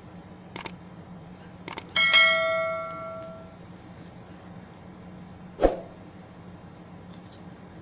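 A dish or utensil struck once, ringing out with a bell-like tone that dies away over about a second and a half, after a couple of light clicks. A dull knock follows about three seconds later, over a steady low hum.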